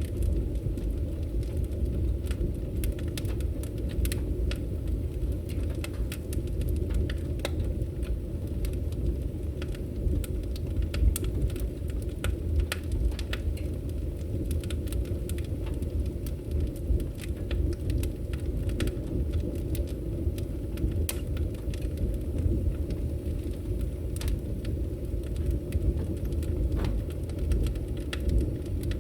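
Wood fire burning in a fireplace: a steady low roar of flames with frequent, irregular sharp crackles and pops of burning wood.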